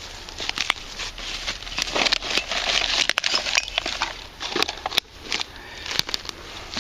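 Glass bottles and metal cans clinking and clattering as junk in a trash dump is shifted about, with a rustle of leaves and debris that is thickest in the middle.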